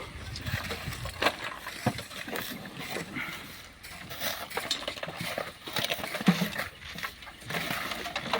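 Irregular scraping and knocking of hand tools working in sand and stones, a few sharper clacks among the scrapes.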